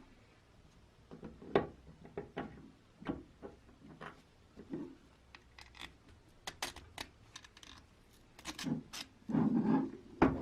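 Irregular light clicks, taps and knocks of small hard parts being handled, with a louder stretch of rubbing and clattering near the end.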